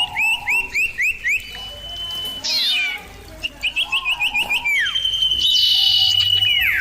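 Common iora calling. It gives quick runs of short hooked chirps between long, level whistles. The last whistle is held for about two seconds and then drops away in pitch.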